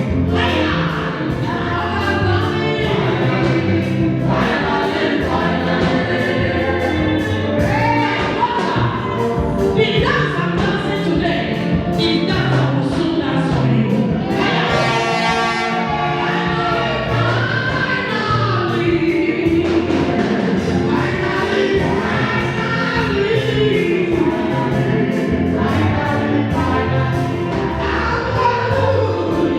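Gospel choir singing with musical accompaniment over a steady beat.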